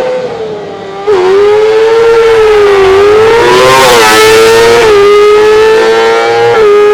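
Race car engine screaming at high revs as the car accelerates up the hill and past. The high, wavering note dips briefly at each quick gear change, about a second in, near five seconds and again later. The sound jumps loud about a second in and is fullest around four seconds in, as the car goes by.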